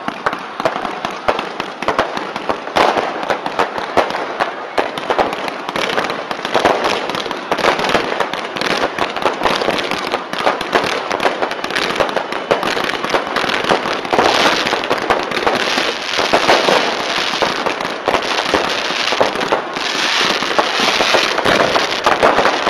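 Aerial fireworks bursting overhead in a dense, non-stop barrage of bangs and crackles.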